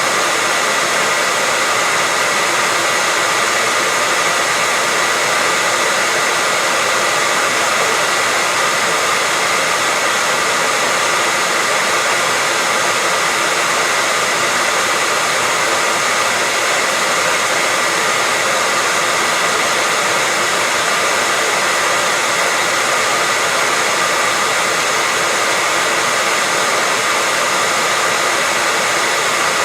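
Hair dryer running continuously, a steady loud whoosh of air with a constant whine in it, unchanging throughout.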